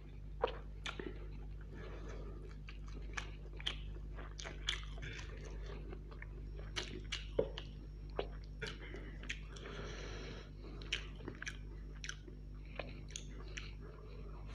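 Close-up chewing of chow mein noodles: wet mouth clicks and smacks, irregular and several a second, over a steady low hum.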